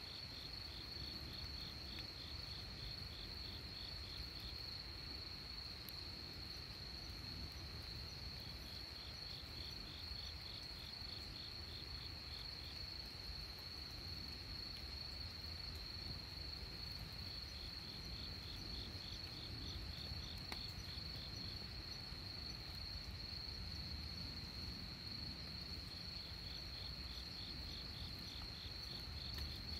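Crickets singing at night: one insect keeps up a continuous high, steady trill while a second, slightly lower pulsed chirping comes and goes in bouts of a few seconds, over a faint low background rumble.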